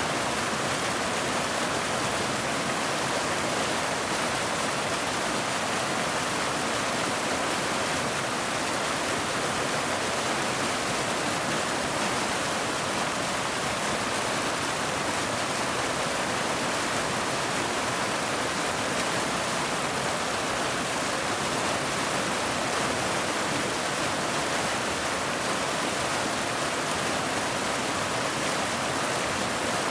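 Rain falling, a steady, even hiss that does not change.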